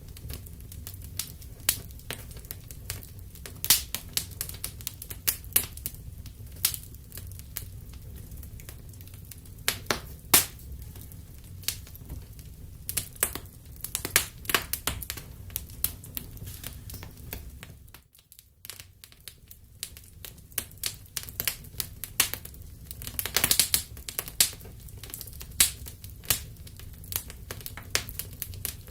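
Wood fire crackling and popping in a fireplace: irregular sharp snaps over a steady low rumble of the flames. The sound drops away for about a second a little past the middle, then carries on.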